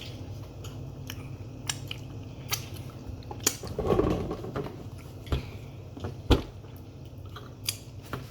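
A person chewing food close to the microphone, with wet mouth clicks, a short hum-like sound with the mouth closed about four seconds in, and a sharp knock a little after six seconds.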